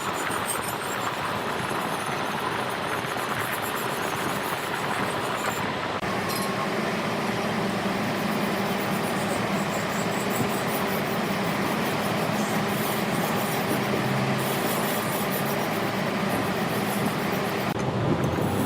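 Steady machine noise of a large wood lathe running in a workshop.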